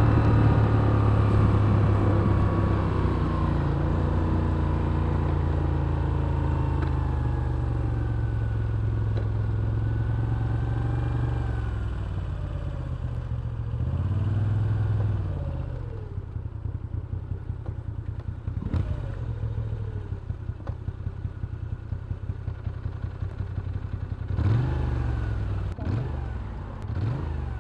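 2023 Moto Guzzi V7 Special's air-cooled transverse V-twin engine running as the bike slows, its pitch falling, then settling into a lumpy, pulsing idle. The throttle is blipped briefly once about halfway through and twice near the end.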